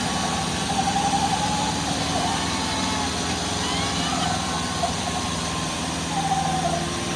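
Tractor diesel engines running steadily, with people shouting over them now and then.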